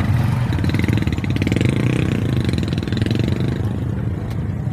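A motorcycle engine running steadily at idle.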